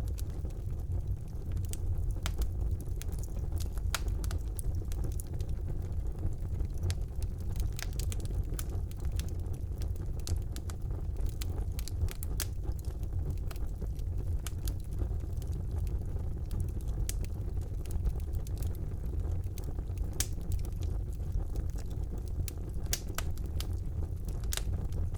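Wood fire burning in a fireplace: a steady low rumble of the flames with frequent sharp crackles and pops of burning logs scattered throughout.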